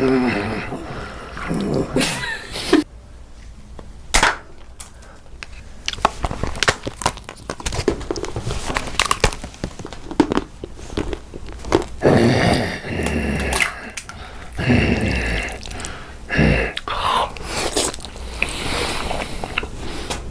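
Close-up eating sounds: chewing and crunching food, with many short sharp clicks and crackles.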